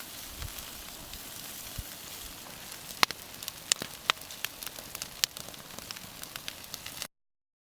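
Open wood fire crackling, with a steady hiss under sharp pops that come thicker from about three seconds in. It cuts off suddenly near the end.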